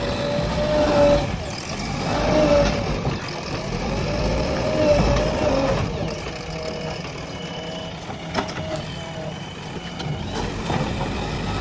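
JCB 3DX backhoe loader's diesel engine working, with a whine that rises and falls several times as the revs change. A single sharp knock about eight seconds in.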